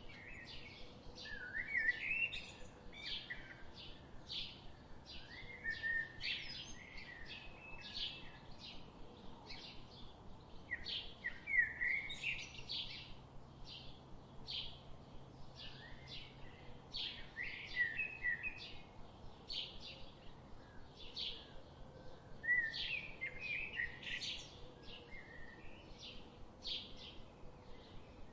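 Canada goose goslings peeping in a steady run of short, high notes, one or two a second. Every five or six seconds a louder, more twisting bird phrase cuts in.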